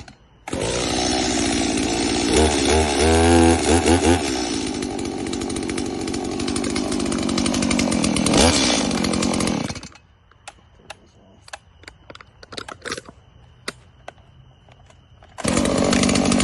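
Gasoline chainsaw firing up and running with the throttle blipped up and down for about nine seconds, then cutting out. A few scattered clicks follow, and it fires again near the end. This is a hard-starting saw that has not run in two days and needs priming.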